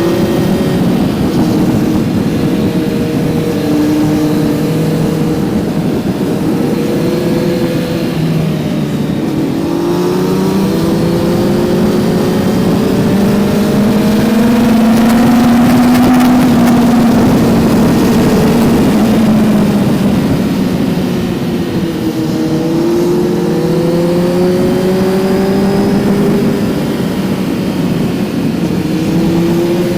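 Kawasaki Z900's 948 cc inline-four engine under way on the road. It pulls with a rising pitch to its loudest about halfway through, eases off and drops, then climbs again near the end.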